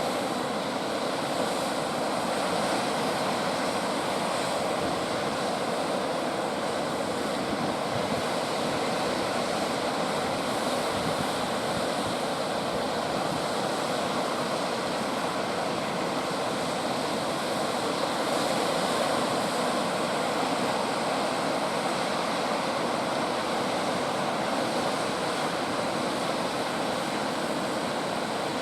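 Ocean surf: heavy waves breaking without pause, a steady rushing wash with no single crash standing out.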